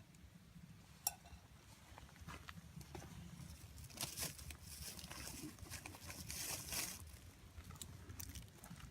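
Crackles and snaps from a campfire being started: one sharp snap about a second in, then a denser spell of crackling and rustling in the middle.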